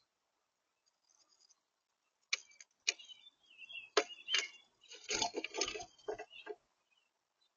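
Irregular sharp taps and knocks at a backyard bird feeder, a few single ones and then a quick flurry, with a few short high bird chirps about three seconds in.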